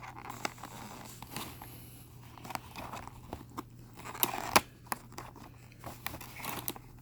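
Plastic and cardboard toy-car packaging being handled and opened: crinkling with many sharp clicks and snaps, the loudest snap about four and a half seconds in.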